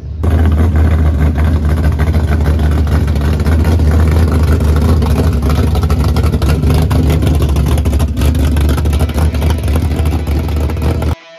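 Loud, rough exhaust rumble of a hot-rodded mid-1960s Chevy II, its big engine standing up through the hood, as the car drives slowly past. It cuts off suddenly near the end.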